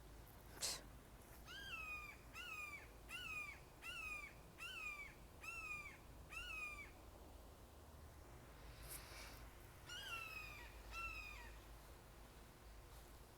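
Hawk calling from a tree: a series of six faint, drawn-out cries, each sliding down in pitch, about one a second, then two more after a pause. A single sharp click comes just before the first cry.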